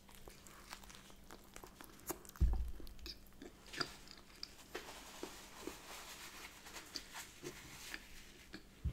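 Close-up chewing of a soft bagel filled with smoked salmon, cream cheese, avocado, tomato and onion: wet mouth clicks and small crunches, with a dull knock about two and a half seconds in.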